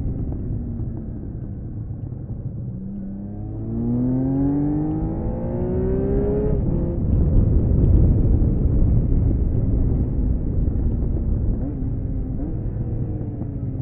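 1979 Honda CBX 1000's six-cylinder engine accelerating hard, heard onboard. The note climbs steadily for about three seconds, drops abruptly at a shift or throttle lift, then runs on under a loud low rush of noise.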